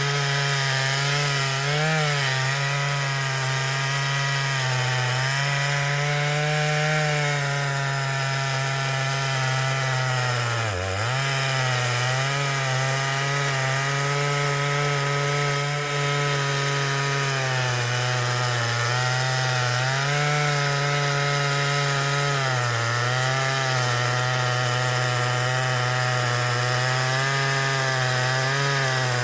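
Stihl MS 881 chainsaw on an Alaskan (Granberg) mill, running near full throttle under load as it rips lengthwise through a hemlock log. The engine note holds steady with small wavers and dips sharply for a moment about eleven seconds in, as the saw bogs briefly in the cut.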